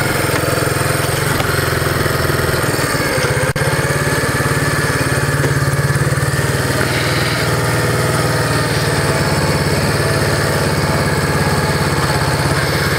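Yamaha SR250's air-cooled single-cylinder four-stroke engine idling steadily when warm, at an idle the owner finds too high and thinks needs adjustment.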